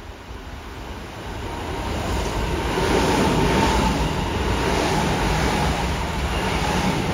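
Kintetsu electric train running past, its rumble and wheel-on-rail noise building from about a second in and staying loud as the cars go by.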